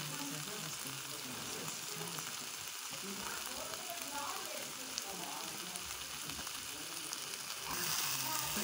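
Chopped vegetables sizzling in hot oil in a frying pan. Near the end the sizzle grows louder as a wooden spatula starts stirring them.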